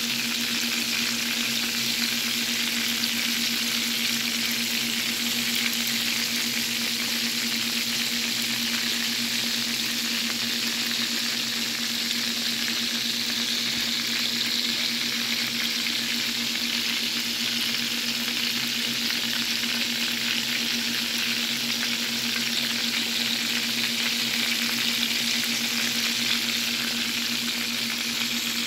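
Breaded pork chops shallow-frying in hot oil in a skillet, a steady, even sizzle, with a steady low hum underneath.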